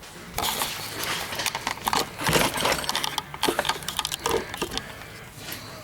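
Irregular small clicks, taps and rattles of parts being handled.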